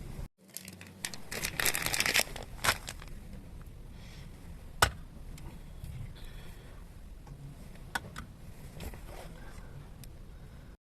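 Close rustling and scraping handling noises with a few sharp clicks, the loudest click about halfway through.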